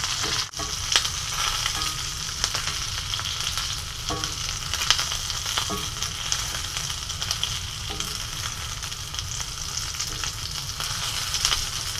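Chicken adobo sizzling in a cast-iron skillet, with a steady frying hiss and a wooden spoon stirring and scraping the pieces in scattered clicks. The sauce has nearly cooked off, so the chicken is frying in the oil as it finishes.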